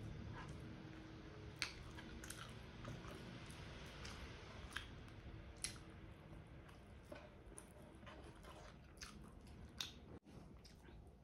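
Faint close-miked chewing of rice and chicken adobo eaten by hand, with scattered sharp wet mouth clicks and lip smacks.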